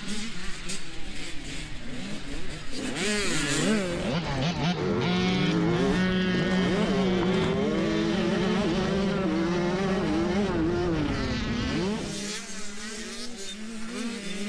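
Several motocross dirt bike engines racing on the track, their pitch rising and falling as the riders rev and shift, over a steady engine drone; the revving is busiest through the middle and eases off near the end.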